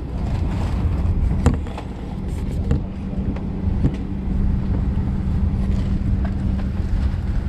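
Steady cabin hum and low rumble of a Boeing 737-900ER parked at the gate, with a few short clicks and knocks.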